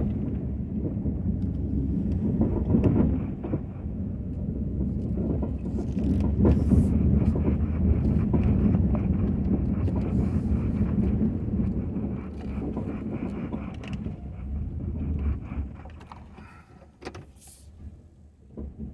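Ford F-250 pickup truck running with a steady low rumble, growing louder a few seconds in and then fading away about 16 seconds in.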